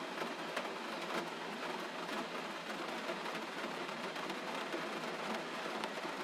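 Steady gentle rain: an even hiss with the faint patter of individual drops.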